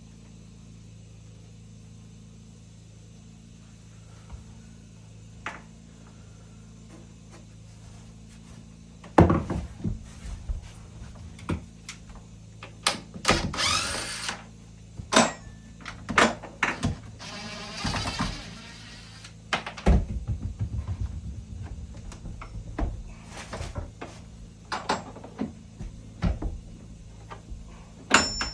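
Wooden door and boards being handled: knocks and thuds, with a power tool whirring briefly twice. A steady low hum runs underneath, and the knocking starts about nine seconds in.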